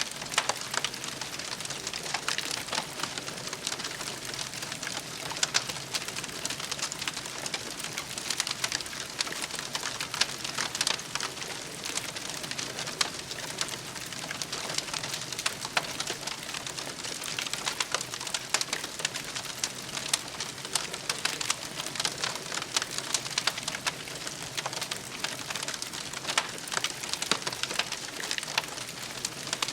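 Campfire crackling: a steady, dense stream of small sharp crackles and pops over a soft hiss.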